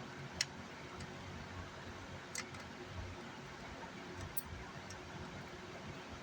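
A few light, sharp clicks about two seconds apart over a steady low hum.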